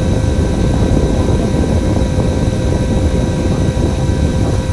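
A KMB bus running on the road, heard from inside the cabin: a steady low engine and road rumble with a constant whine above it.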